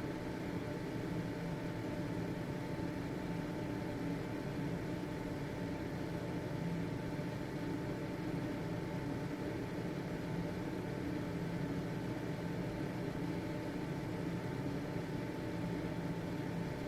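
Household exhaust fan (ventilator) running steadily: an even whirring rush with a faint constant motor hum and no change in speed.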